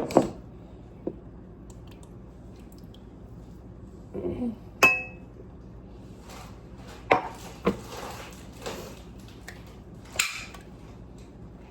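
Kitchenware knocked and clinked on a counter while juice is measured out: a handful of separate sharp knocks, one of them, about five seconds in, ringing briefly like struck glass or metal.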